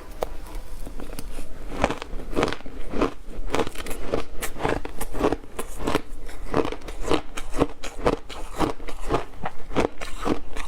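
A person biting and chewing ice, a steady run of crunches about two a second.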